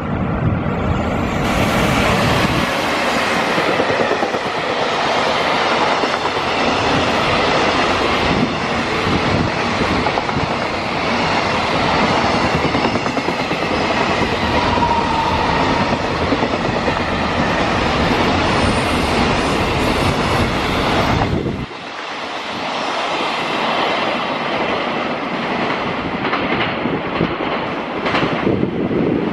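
Freight train running past at close range, its wagon wheels clattering over the rail joints. About three-quarters of the way through, the low rumble drops away suddenly and the clatter goes on a little quieter.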